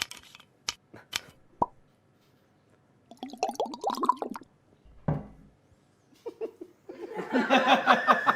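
A few sharp mouth clicks and pops, then a short wordless vocal sound. Laughter and voices start near the end.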